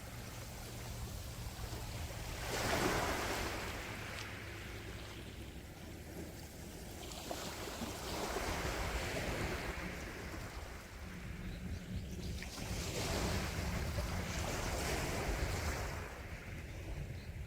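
Sea waves washing onto the shore: three swells of surf rise and fall, the loudest breaking about three seconds in, over a steady low rumble.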